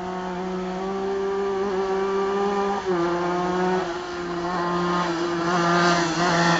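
Honda NSR125 single-cylinder two-stroke engine of a go-kart running at fairly steady revs. The pitch steps down slightly about three seconds in, and the engine grows louder toward the end.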